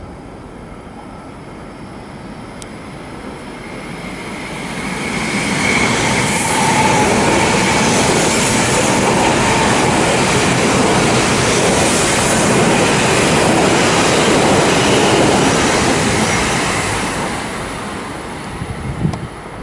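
A Shinkansen train running along the platform tracks: its rushing rail and wheel noise builds up over a couple of seconds, stays loud for about ten seconds, then fades away.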